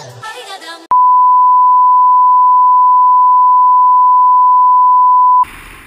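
A loud, steady electronic beep at a single pitch, a pure tone like a censor bleep, lasting about four and a half seconds. Music cuts off just before it starts, and it stops abruptly into outdoor background noise near the end.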